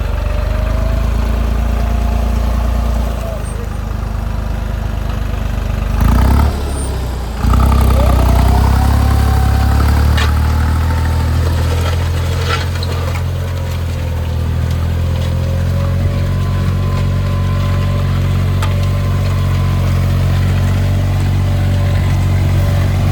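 Tractor engine running steadily. About six seconds in there is a brief loud burst and a short dip, after which it runs louder.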